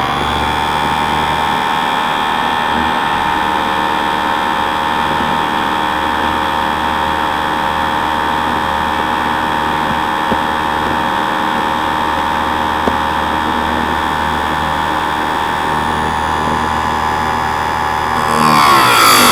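Harbor Freight electric chainsaw sharpener's motor and grinding wheel running steadily with a high whine, off the tooth between passes. Near the end the wheel comes down onto a chain tooth: the pitch drops under the load and louder grinding starts.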